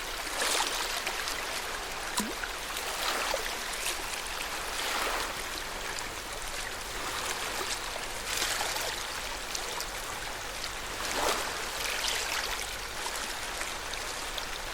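Lake water lapping at the shore, a gentle wash of small waves swelling every two or three seconds over a steady trickling hiss.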